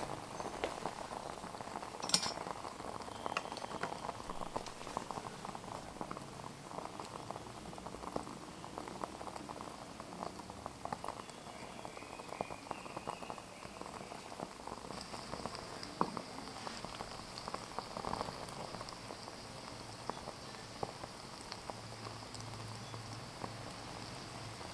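Liquid bubbling in a miniature cooking pot at a simmer, a steady stream of small pops and crackles, with one sharp click about two seconds in.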